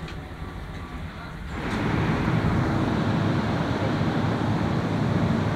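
Passenger train carriage rumbling steadily as it rolls in, then about a second and a half in a sudden switch to a louder, steady rushing noise beside the standing train.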